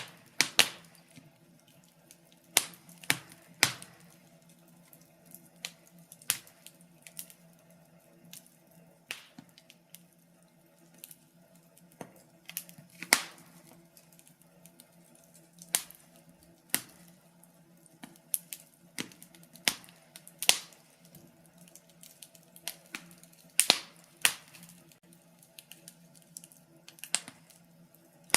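Wood fire crackling: irregular sharp pops and snaps, some loud, a few seconds apart or in quick clusters, over a faint steady low hum.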